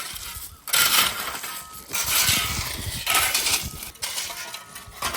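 Metallic clinking and scraping in a series of strokes about a second long each.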